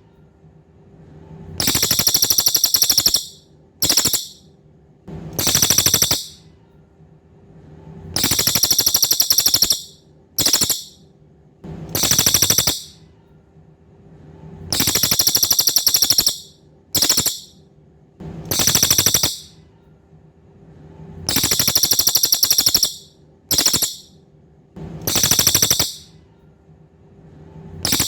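Cililin songbird song: high, rapidly pulsed buzzy trills in a fixed phrase of a long trill, a short burst and another trill, repeating the same way about every six and a half seconds. It is a looped masteran (tutor) recording, with a faint steady hum underneath.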